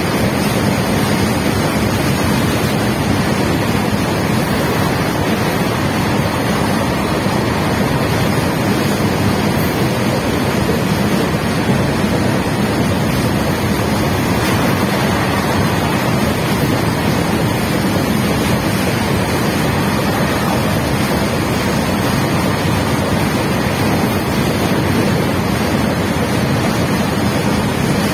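Steady rushing and rumbling noise of a long goods train's empty BOXN open wagons rolling past on the rails, mixed with wind buffeting the microphone.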